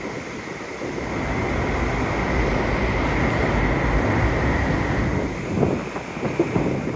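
Strong wind with a steady roar, buffeting the microphone.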